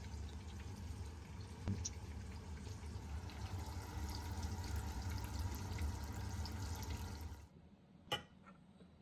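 Breaded chicken frying in hot oil: a steady sizzle with scattered crackles over a low hum, which cuts off abruptly near the end. A single sharp click follows.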